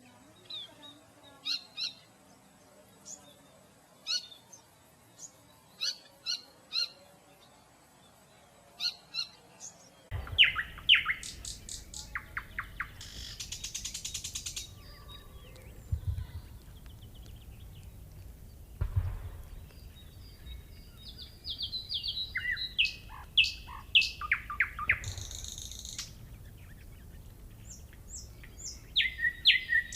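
Songbirds singing: sparse short, high chirps for about ten seconds, then an abrupt change to a fuller, varied song of rapid trills, quick note series and buzzy passages.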